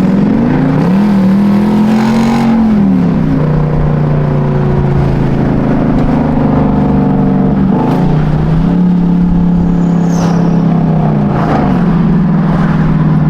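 Dodge V8 engine running loud. Its pitch climbs about a second in and holds, drops near three seconds, climbs again around eight to nine seconds and falls back near twelve, as the revs are raised and let off.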